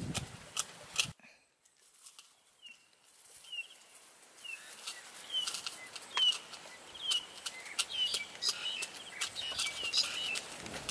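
A bird calling with short, bright chirps repeated about once a second, coming a little quicker near the end, over scattered light clicks. The first second holds a few dull thuds of a wooden pestle pounding in a mortar, before the sound drops away.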